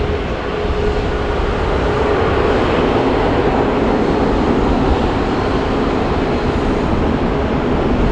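Jet airliner's engines running loud and steady: a rushing noise with a held whining tone in it, which grows louder about a second in.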